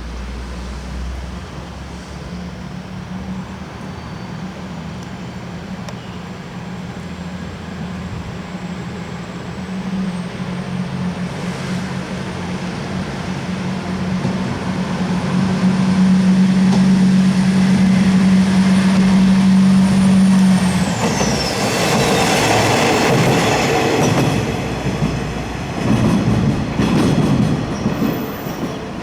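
Train moving through the station: a steady hum that builds for some seconds, then cuts off with a quickly falling whine about two-thirds of the way in. The wheels then rumble and clatter over the rails.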